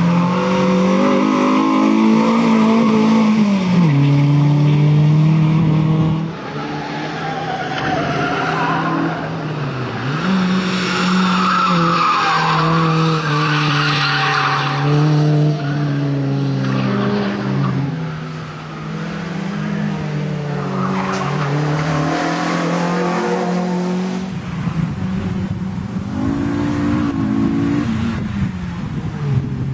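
Renault Clio II's engine revving hard, its pitch climbing and dropping again and again through gear changes and braking as it is driven flat out around tight tyre-stack turns. Tyres squeal through the corners, most strongly about halfway through.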